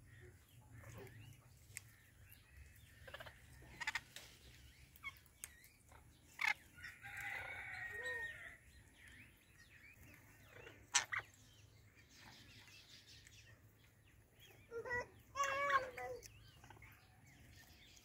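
Scattered bird calls: short chirps and squawks, a longer call about seven seconds in, and a wavering pitched call around fifteen seconds in.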